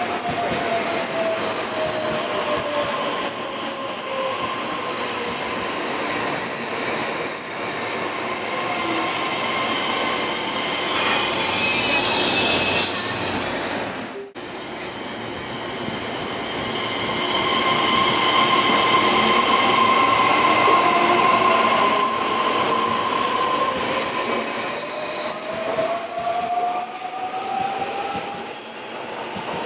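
Taiwan Railways train running through the station, steel wheels squealing on the rails with several steady high tones over continuous rolling noise. A whine falls in pitch over the first few seconds and another rises through the last few seconds; the sound briefly dips about halfway.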